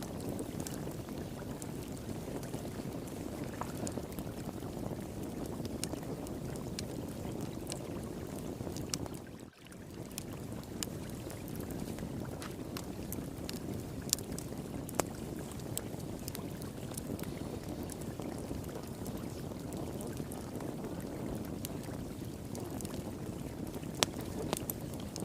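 Wood fire crackling with scattered sharp pops over the steady rush of flowing water. The sound dips briefly about nine and a half seconds in.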